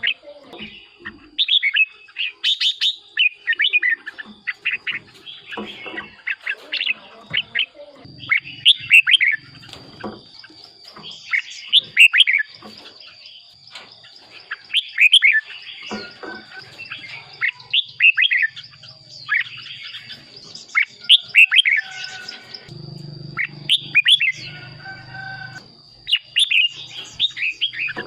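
Red-whiskered bulbul singing: short, bright warbled phrases, repeated about every three seconds.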